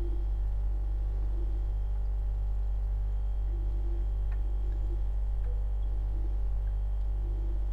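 Refrigerator running with a steady low electrical hum, its compressor motor droning at an unchanging level, with a couple of faint ticks about halfway through.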